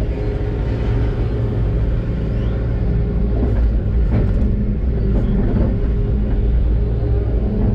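Diesel engine of a Doosan DX600 excavator running steadily with a deep rumble, heard from the cab. A few brief knocks and squeals come through about halfway.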